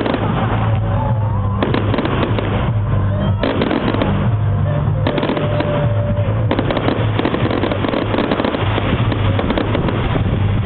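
Fireworks going off in a continuous barrage of dense crackling and bangs, busier in stretches, with a brief whistling tone about halfway through.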